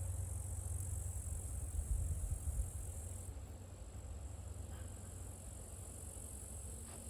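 Insects trilling steadily at a high pitch, thinning a little about three seconds in, over a low rumble that is loudest in the first half and then eases.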